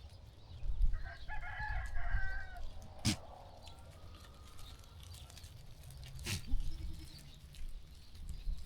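A rooster crowing once, about a second in, lasting a second and a half, with a couple of sharp knocks later and a low rumble in the background.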